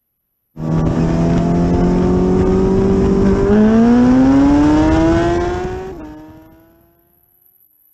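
Suzuki Hayabusa inline-four sportbike engine held at steady high revs, then climbing in pitch as it accelerates hard. A gear change drops the pitch about six seconds in, and the sound fades quickly as the bike pulls away. The sound cuts in abruptly about half a second in.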